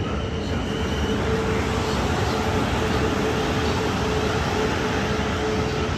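Train running through the station: a steady rumble with a constant mid-pitched whine, and a higher whine that stops about a second in.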